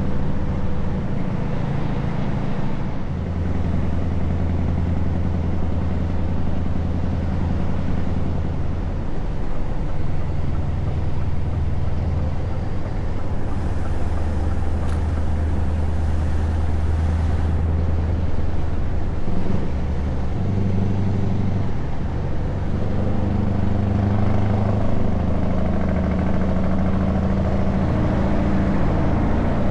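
Scania S truck's diesel engine running through open exhaust pipes while driving, a loud, steady low drone. Its pitch steps down and back up several times as the revs change.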